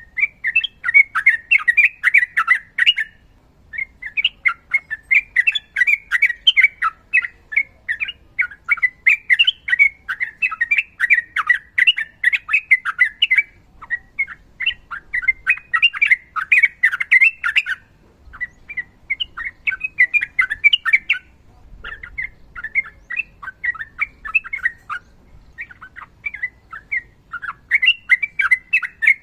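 Sooty-headed bulbul singing a long, rapid chattering song of quick notes, in phrases several seconds long broken by brief pauses.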